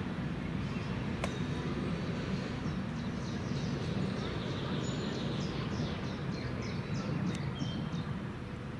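Steady low outdoor rumble, with a songbird singing a run of short, high, falling chirps from about three seconds in. A single sharp click comes about a second in.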